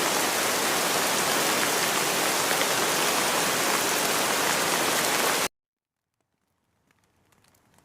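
Steady, dense rain noise that cuts off suddenly about five and a half seconds in. After a second of silence, faint rain with scattered drops fades back in.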